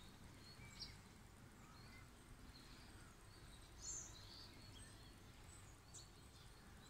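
Faint outdoor ambience: a low background hum with scattered, distant bird chirps.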